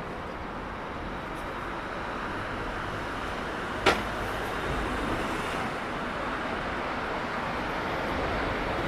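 City street traffic: a steady rush of passing vehicles, a little louder near the end, with one sharp knock about four seconds in.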